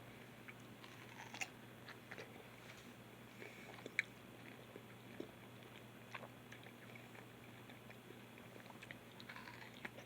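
Biting into and chewing a soft, juicy fruit, close up: faint wet mouth clicks and smacks, with the sharpest bite about four seconds in.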